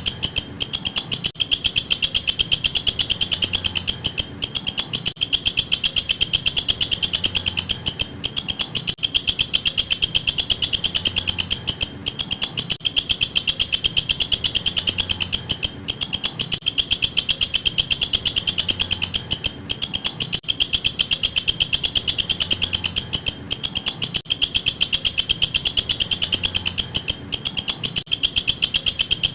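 Walang kecek bush cricket stridulating: a shrill, rapid train of chirps that goes on steadily, broken by brief pauses every one to few seconds.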